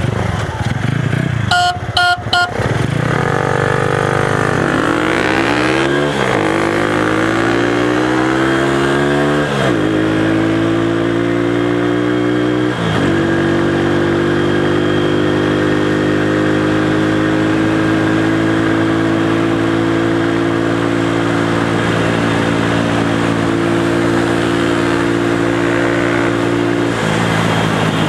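Small-capacity motorcycle engine accelerating hard, rising in pitch and shifting up three times in the first 13 seconds. It then holds a steady high-revving run and backs off near the end.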